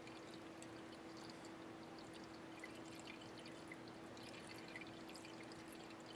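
Near silence: faint steady hiss with a low constant hum, attic room tone.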